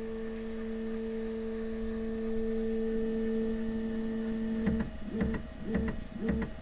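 Bambu Lab P1S 3D printer's stepper motors humming a steady pure tone during the self-test calibration. The tone breaks up into short pulses about twice a second near the end.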